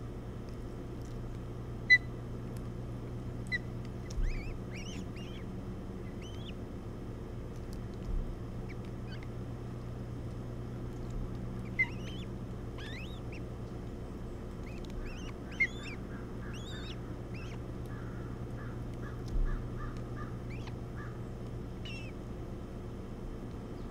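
Birds calling: short, sharp chirps and quick rising and falling whistled notes, with a rapid run of short notes from about 15 to 21 seconds in, over a steady hum and wash of background noise. A few low bumps sound now and then.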